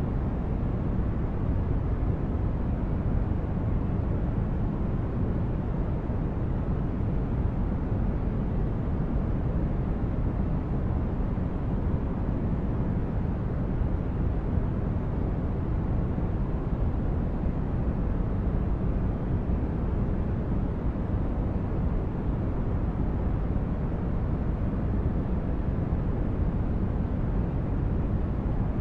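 Steady sleep-aid noise: an even, unbroken hiss weighted heavily toward the low end, so it sounds like a deep rumble, with no changes.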